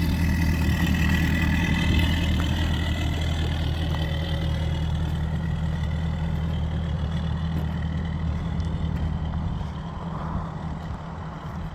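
Mercury 250 ProXS four-stroke V8 outboard idling steadily in neutral, a low, even engine note that eases slightly quieter near the end.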